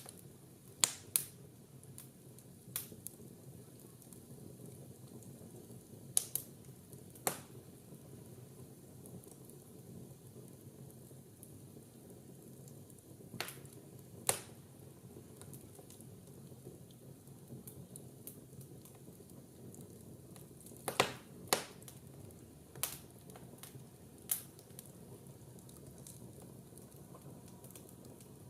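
Wood fire burning in a fireplace: a steady low rush of flames with sharp, irregular crackles and pops from the burning logs, several of them in quick pairs.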